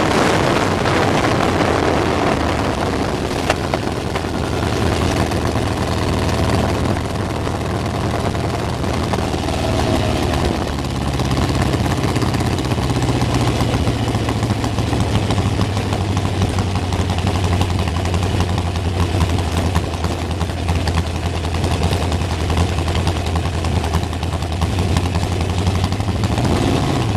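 Sprint car's 305 cubic-inch V8 heard from on board, running steadily at low revs with a deep, even note.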